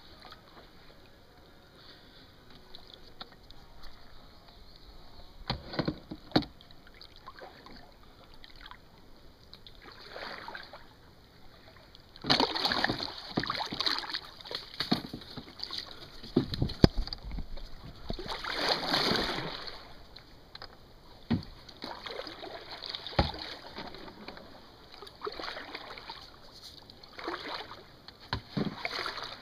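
Canoe paddling: irregular paddle strokes splashing and sloshing in the water, with a few sharp knocks scattered through.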